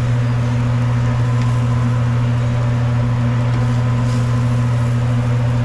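A steady low motor hum with a faint hiss over it.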